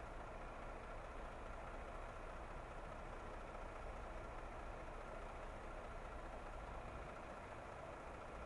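Steady engine and road noise from a car driving at an even speed.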